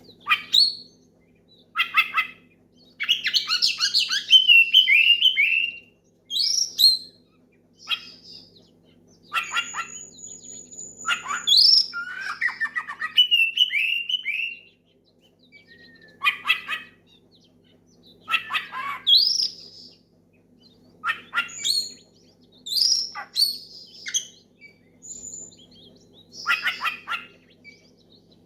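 Oriental magpie-robin (kacer) singing loudly in repeated bursts of phrases, with clear whistles mixed with harsh, buzzy notes and short pauses between phrases. This is a challenge song calling out a rival.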